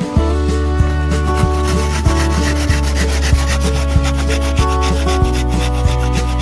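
Wood being sanded, a rasping rub, over background music with a steady beat and sustained low notes.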